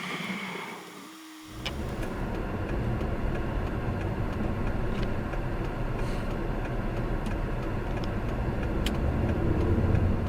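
Steady vehicle and road noise as heard from a car on the move, dropping away briefly about a second in and then resuming evenly.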